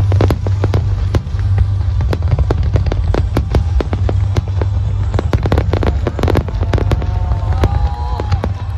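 Aerial fireworks bursting in quick succession: many sharp, overlapping bangs and crackles over a steady low rumble.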